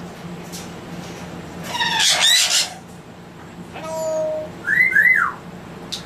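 Captive parrots calling: a harsh, whistly squawk about two seconds in, then a held whistle and two quick arching whistles.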